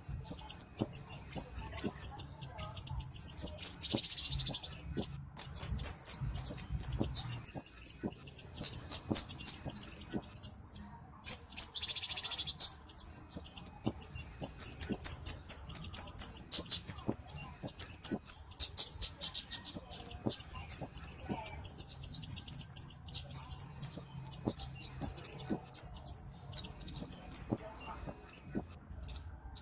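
Flowerpecker (cabe-cabean) calling: rapid runs of very high, thin ticking notes in bursts of a few seconds with short pauses between. Twice, about four and twelve seconds in, a brief harsh rasping sound breaks in.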